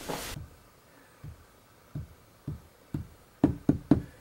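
A run of soft, short knocks, about two a second at first, coming quicker and sharper near the end.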